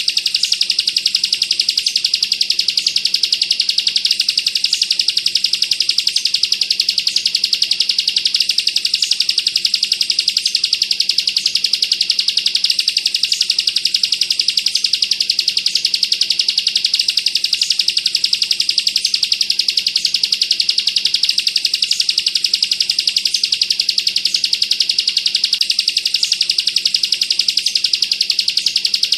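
Bar-winged prinia (ciblek kristal) singing a rapid, unbroken high trill, the dense machine-gun 'bren' that bird keepers prize. A faint steady hum lies underneath.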